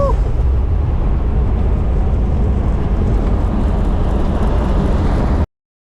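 A vehicle driving, a steady loud low rumble of engine and road noise with no distinct tones, cutting off suddenly about five and a half seconds in.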